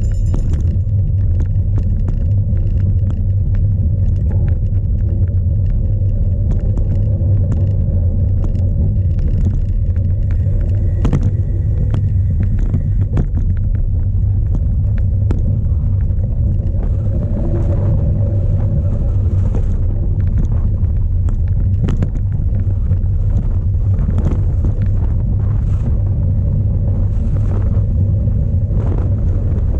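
Strong wind buffeting an onboard camera's microphone while a cyclocross bike is ridden over rough ground. It makes a steady low rumble, with frequent sharp clicks and rattles from the bike scattered through it.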